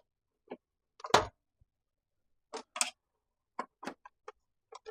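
Scattered light clicks and knocks, about ten in all, the loudest about a second in, from tools and parts being handled while a miter saw's dust chute is fitted.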